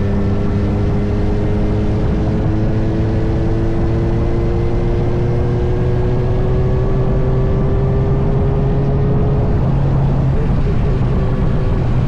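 Kawasaki Z900 inline-four motorcycle engine running under way, its note climbing slowly for most of the stretch before the pitch line breaks off about nine and a half seconds in.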